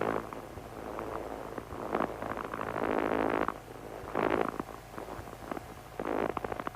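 The Cessna 140's engine drones low and steady in the cockpit, broken by several short, rough, crackly bursts.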